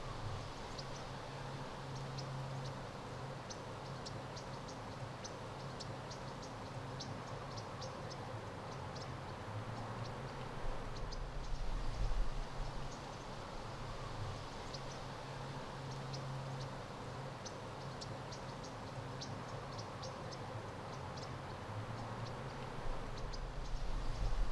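Outdoor ambience: short, high chirps or ticks like insects, repeating irregularly throughout, over a low hum that swells and fades.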